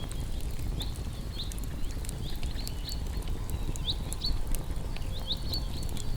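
Campfire of burning wood crackling with scattered sharp pops over a steady low rumble, while short high chirps sound again and again.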